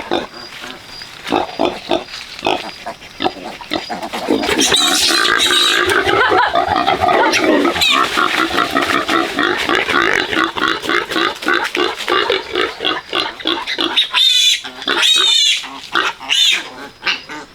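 Pigs squealing and grunting in a loud, dense jumble that swells about four seconds in and runs on for around ten seconds, with high, wavering piglet squeals near the end.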